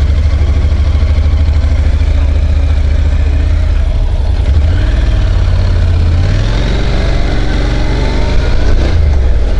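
A motorcycle engine running on the move, with a deep steady rumble; about six seconds in its pitch rises as it accelerates.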